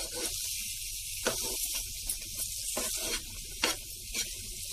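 Bread halwa mixture sizzling in ghee in a pan while a steel spoon stirs it, a steady hiss broken by several irregular scraping strokes of the spoon.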